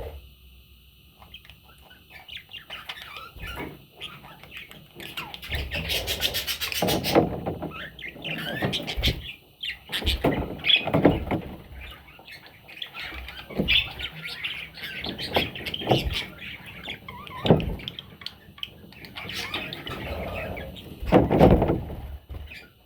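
Budgerigar chicks chirping and squawking almost continuously, mixed with scratchy knocks and a quick run of clicks about six seconds in.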